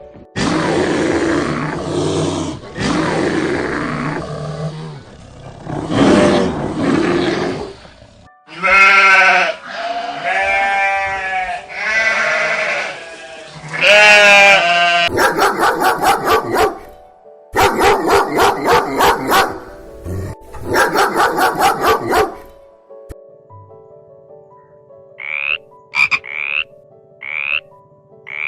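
A run of different animal calls one after another. First come rough, noisy calls, then pitched bleating calls, then frogs croaking in fast pulsed trains, and near the end a few short chirps.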